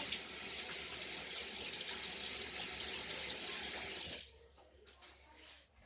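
Water running from a tap into a sink, a steady rush that is shut off about four seconds in.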